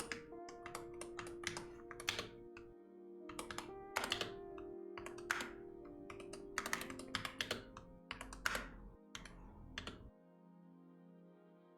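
Typing on a computer keyboard: irregular runs of keystroke clicks with short pauses, stopping about ten seconds in. Soft background music with sustained notes plays underneath.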